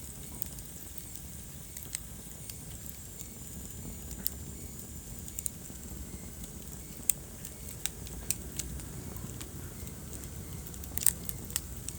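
Wood fire burning in a fireplace: a low steady rumble of the flames with scattered sharp crackles and pops, the loudest pops coming in a quick cluster about eleven seconds in.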